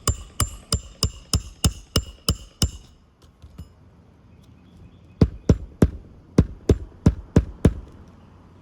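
Hammer strikes on an asphalt shingle roof as old roofing nails are worked out: two runs of about eight quick, even blows, the first run with a metallic ring, separated by a pause of about two seconds.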